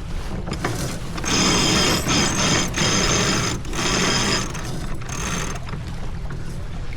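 Genoa sheet being trimmed on a sailboat's sheet winch: the winch ratchets in about five quick spurts of whirring clicks as the line is hauled in.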